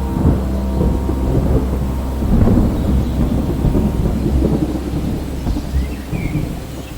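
Rolling thunder rumbling over steady rain, swelling loudest about two and a half seconds in.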